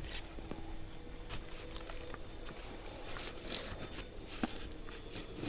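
Soft rustling and scattered light knocks as a transport bag is worked down over a bee nuc box, with a faint steady hum underneath.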